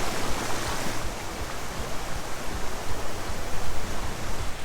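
Steady rush of a rain-swollen creek pouring over the top of a waterfall at high flow.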